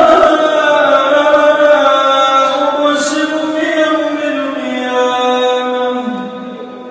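Melodic Quran recitation: a single voice holding one long drawn-out phrase, sliding slowly lower in pitch and fading near the end.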